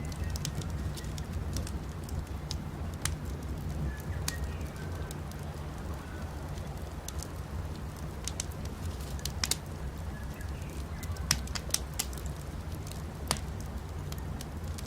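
Wood campfire crackling with irregular sharp pops over a steady low rumble, with faint short bird chirps in the background.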